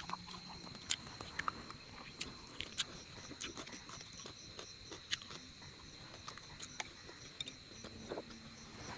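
Insects buzzing at one steady high pitch, with scattered small clicks and ticks throughout.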